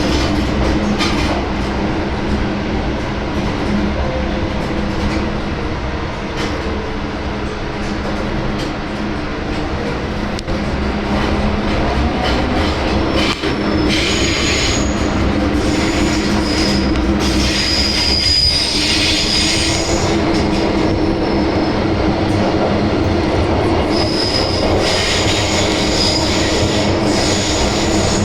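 MTR Island Line M-train running, with a steady traction-motor hum over continuous wheel and rail rumble. From about halfway, high-pitched wheel squeal comes and goes.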